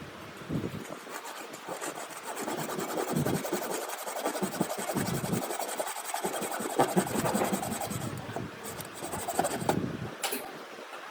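A tool scraping across wood in a continuous run of fast strokes, stopping about ten seconds in.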